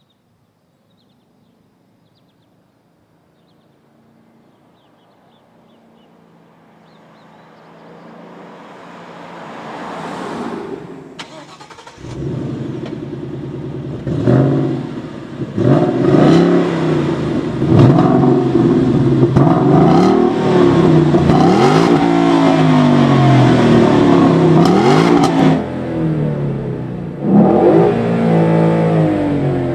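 2014 Ford Mustang GT's 5.0 V8 through a Roush axle-back exhaust. A faint rush slowly swells, then the engine comes in loud about twelve seconds in and is revved again and again, its pitch rising and falling.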